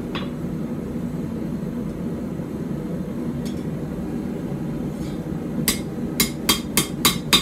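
Blacksmith's hammer striking a hot puukko blade on an anvil: after several seconds of only a steady low hum, a quick run of about six sharp blows comes near the end, a few per second.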